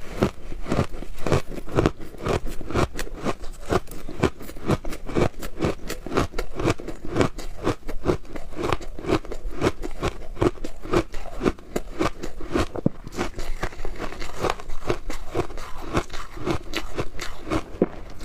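Close-miked crunching of frozen shaved ice being bitten and chewed, a steady run of sharp crunches about four to five a second.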